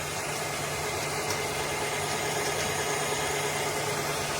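Narwal S30 wet-dry vacuum mop in its base station, running its drying cycle: a steady motor-and-fan hum over an even hiss, unchanged in pitch.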